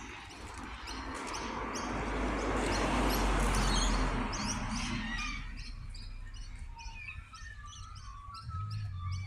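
Small birds chirping outdoors, with short high notes repeating a few times a second and some lower notes in the second half. A broad rushing noise with a low rumble swells over the first few seconds and fades out about five seconds in.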